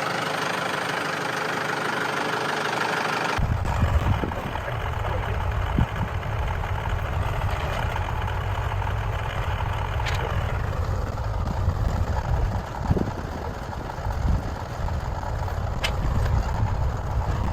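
Tractor engine running steadily while pulling T-posts. About three seconds in the sound shifts abruptly to a deeper, heavier rumble, and a few sharp metallic clicks are heard later.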